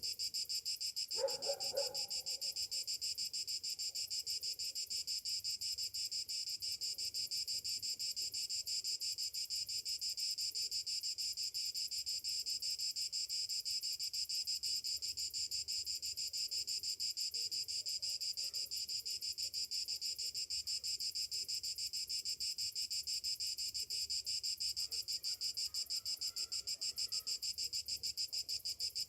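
Cicadas buzzing in a steady, continuous high chorus with a fine rapid pulse. A brief lower sound stands out about a second in, and faint short chirps come near the end.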